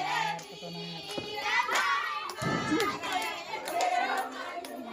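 Several people's voices talking and calling out over one another, with a few sharp clicks.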